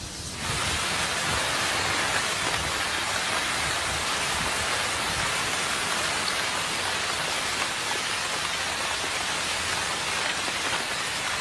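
Steady rain falling, an even hiss that starts abruptly about half a second in.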